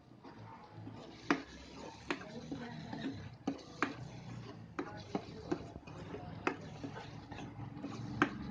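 Irregular sharp knocks of a kitchen utensil striking a hard surface while cooking, about one or two a second, over a low steady hum.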